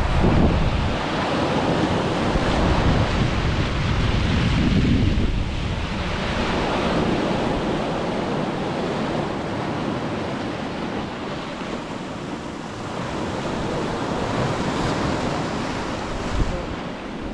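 Ocean waves breaking and washing up on a beach, a steady surf, with wind buffeting the microphone in gusts near the start and again around five seconds in.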